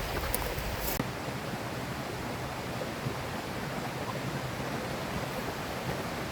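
River water rushing steadily. A deeper rumble underneath drops away about a second in.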